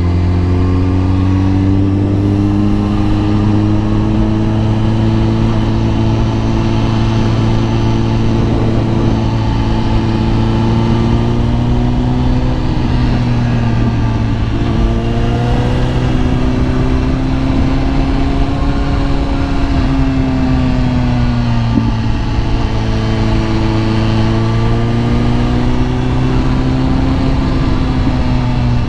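Kawasaki ZX-10R sport bike's inline-four engine running at steady cruising revs, its pitch rising and falling gently with small throttle changes and dipping briefly twice.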